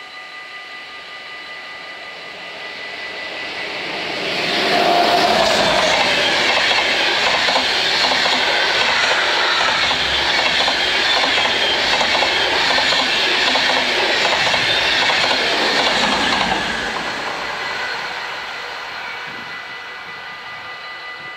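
A passenger train of coaches passes over a level crossing, its wheels clattering over the rails. It builds up, is loud from about four seconds in until about sixteen seconds, then fades away. The crossing's warning bells ring steadily behind it.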